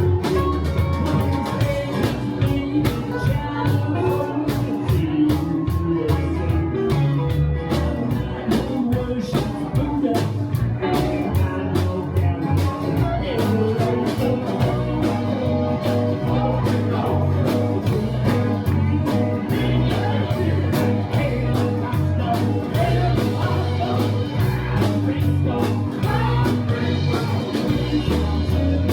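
Blues-rock band playing, with guitar, a bass line stepping from note to note and steady drum hits, and no clear lead vocal.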